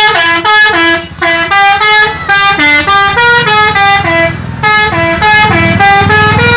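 Bus musical horn playing a quick tune, one note after another with a new note every quarter to half second, over a low engine rumble.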